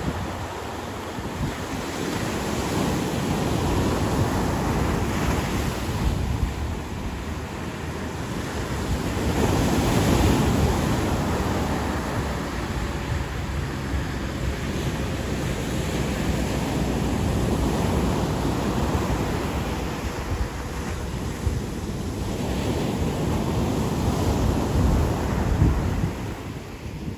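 Ocean surf breaking and washing up a beach, swelling louder with each set of waves and easing between them, with low wind rumble on the microphone.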